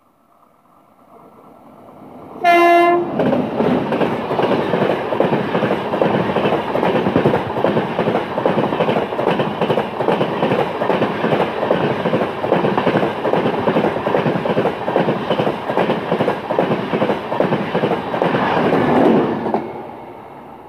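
An Indian Railways locomotive horn gives one short blast as a Humsafar Express runs through at speed. The loud rush of the passing coaches follows, with a fast, steady clickety-clack of wheels over rail joints. It dies away shortly before the end.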